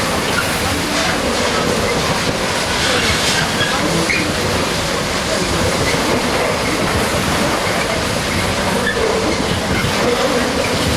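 A train running on the track, a steady rumble of wheels on rail with faint squeals coming and going.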